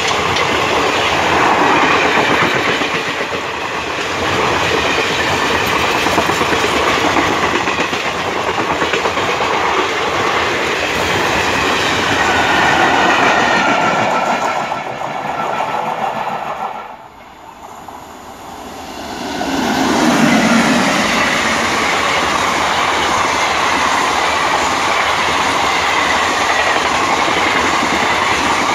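Trains passing close by at speed: a loud, steady rush of wagons with wheels clattering over rail joints. About two-thirds of the way through the noise drops away for a couple of seconds, then a passing train is loud again.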